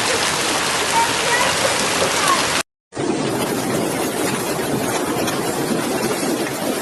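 Steady rushing water noise of a heavy rainstorm, rain and running water together. It breaks off for a split second about two and a half seconds in, then carries on.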